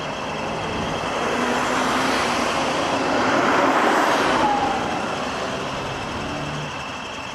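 Road traffic heard from a moving motorcycle: wind and engine noise swelling to its loudest about four seconds in, then easing off.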